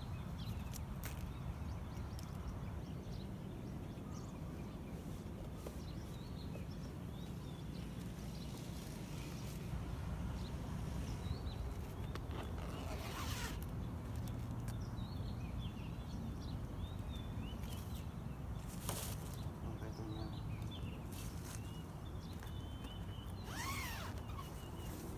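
Steady low outdoor rumble with a few sharp handling clicks and rustles, and brief faint bird chirps, mostly in the second half.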